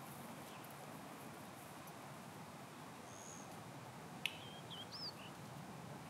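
A small bird gives a few short, high calls about two-thirds of the way through, the first a sharp high note, after a thin whistle just before. Under them is a faint, steady outdoor background.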